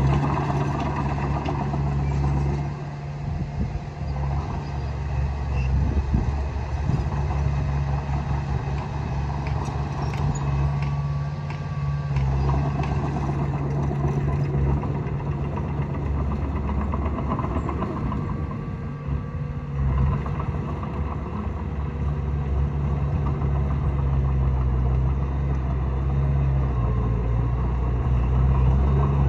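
Diesel engine of a Komatsu D20A crawler bulldozer running steadily under load while it pushes soil. Its pitch and loudness ease off briefly twice. A few knocks sound a few seconds in.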